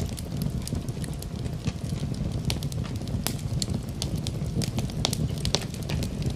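Fireplace fire crackling, with frequent irregular sharp snaps and pops over a steady low rumble.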